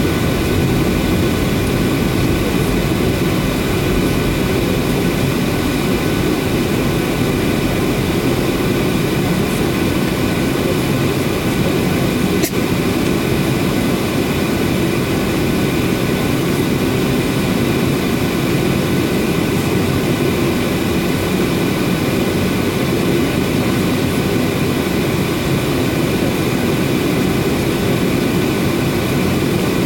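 Steady cabin noise of a Boeing 737-800 in flight: the rumble of its CFM56 jet engines and the airflow, mostly low, with a faint steady whine on top. A single short click about twelve seconds in.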